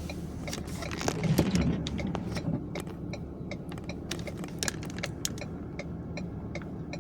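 Plow truck cab: a steady low engine hum with irregular light clicks and rattles throughout.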